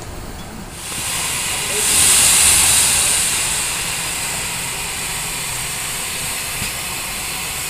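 Steam locomotive letting off steam with a hiss. It starts about a second in, is loudest around two to three seconds in, then holds steady.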